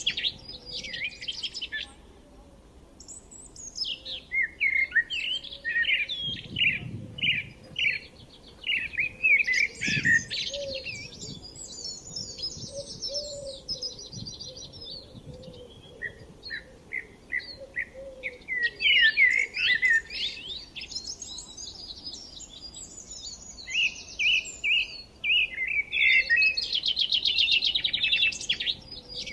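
Several songbirds chirping and singing, a mix of quick trills and short repeated chirps that come in bouts with brief pauses between them. A couple of faint low rumbles sound about a third of the way in.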